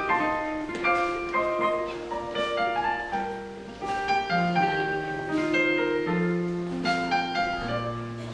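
Piano music: a melody of struck notes over a lower line of notes that steps downward toward the end.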